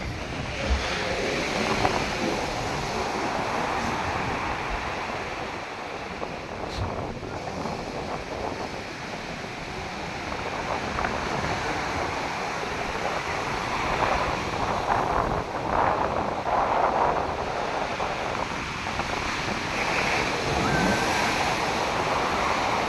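Sea waves breaking and washing up on the shore, a continuous surf that swells and ebbs, with louder surges about two-thirds of the way through. Wind buffets the microphone.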